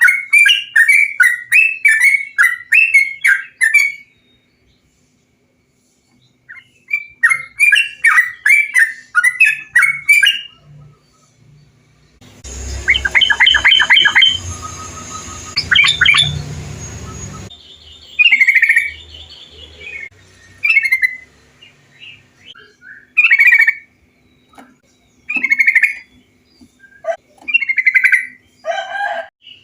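Recorded trucukan bulbul song played for caged birds. It opens with rapid runs of chattering notes, falls silent for a couple of seconds about four seconds in, and chatters again. In the middle a hissier clip carries a fast song, and it ends with short separate call phrases a second or two apart.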